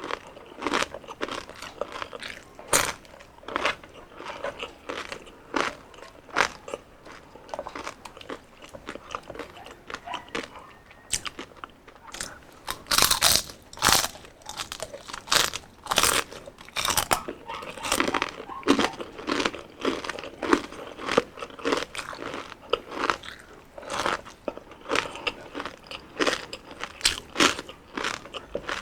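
Close-up crunching and chewing of deep-fried crispy skin, with many sharp, irregular crunches.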